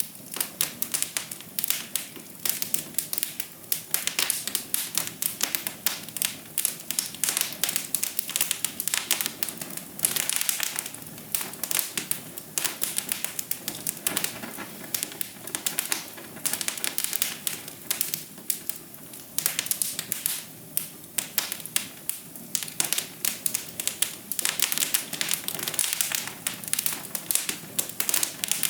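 Fireplace fire crackling: a steady, dense run of irregular pops and snaps.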